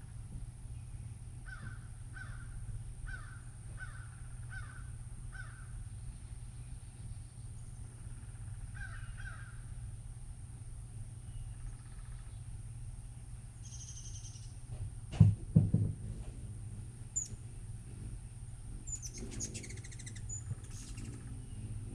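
A bird calling outdoors: a run of six calls about half a second apart, then two more around nine seconds in. A loud dull thump breaks in about fifteen seconds in.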